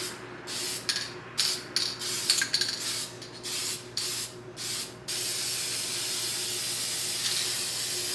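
Aerosol glitter spray paint hissing from the can's nozzle in a quick series of short bursts, then in one long continuous spray from about five seconds in.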